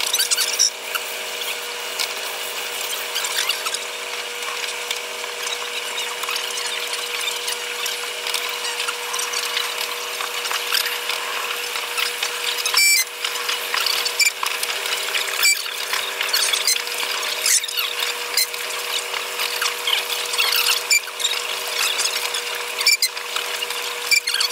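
Sound of a Taiwan Railways EMU100 electric train running, played back at eight times speed, so it comes out as a continuous high squeal and hiss. A few steady tones sit underneath, and many short clicks run through it.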